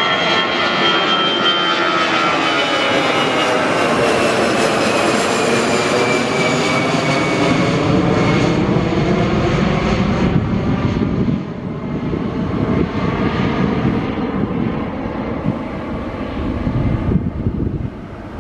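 Jet airliner taking off and passing by: a loud engine roar with a high whine that slides down in pitch over the first several seconds, easing off somewhat after about eleven seconds as the plane climbs away.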